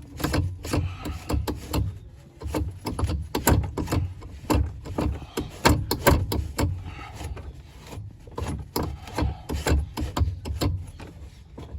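Rusty steel pad of a car's brake pedal being scrubbed and scraped by hand to clean off the rust: a quick, uneven run of short rasping strokes.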